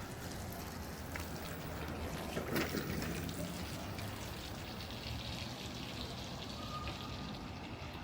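Rain falling steadily, with water trickling and dripping in many small ticks.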